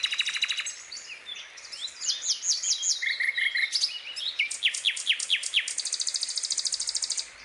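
Songbird singing a varied, fast song of rapid trills, quick down-slurred whistles and repeated chips, with a long buzzy trill near the end.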